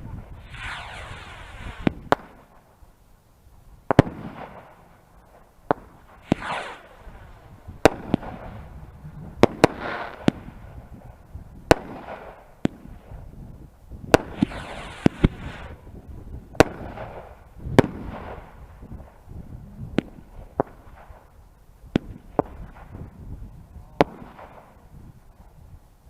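Fireworks going off: a string of sharp bangs from bursting shells every second or two, with several longer hissing sweeps that fall in pitch.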